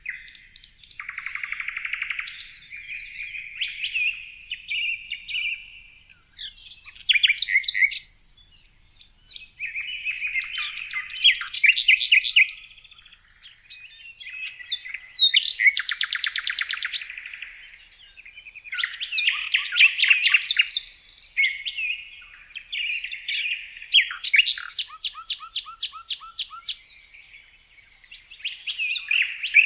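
A songbird singing: a series of fast, varied phrases with rapid trills, each lasting a second or three, with short pauses between them.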